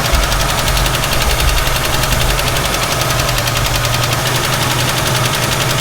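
1967 Ford Mustang engine idling steadily while still warming up, with a rapid valve tick running through the idle.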